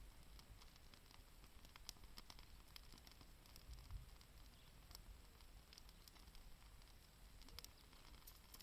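Faint crackling of a wood campfire: sparse, irregular small pops and ticks.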